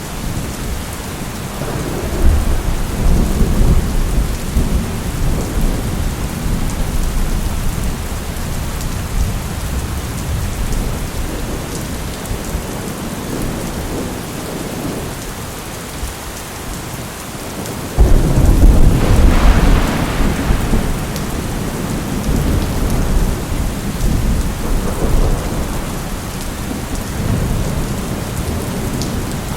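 Steady heavy rain with rolling thunder: a low rumble builds about two seconds in, and more than halfway through a sudden loud thunderclap breaks and rumbles on for several seconds.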